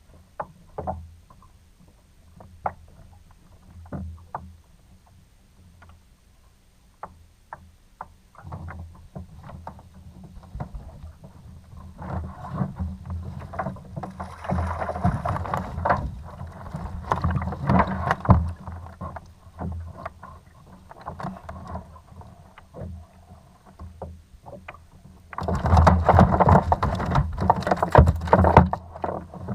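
Sounds of a fishing kayak on the water: scattered sharp knocks at first, then rough stretches of water and handling noise, loudest in a burst a few seconds before the end that stops suddenly.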